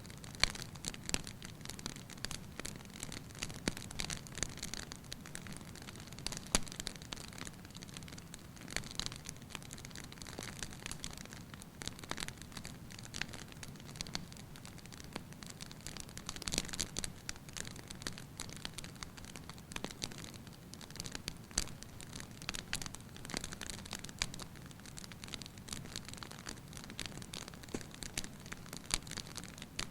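Wood fire burning in an open fireplace, crackling and popping irregularly over a low, steady rush of flame.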